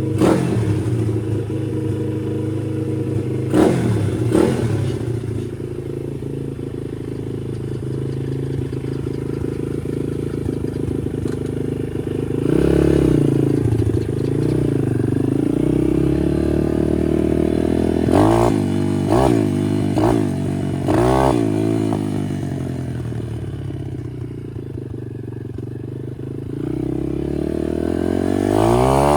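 Chinese pit bike's small single-cylinder four-stroke engine, newly fitted with an aftermarket cam, running and being revved: a rev rise about twelve seconds in, then several quick blips of the throttle. It drops back, dips a little in loudness and swells again near the end.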